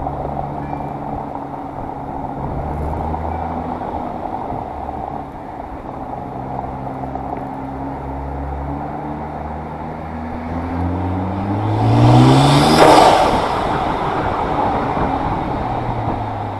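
Nissan GT-R R35's twin-turbo VR38DETT V6 running at steady revs, then accelerating about ten seconds in: the engine note climbs for a few seconds to its loudest, with a rush of air noise at the peak, and then the pitch drops abruptly and settles back to steady running.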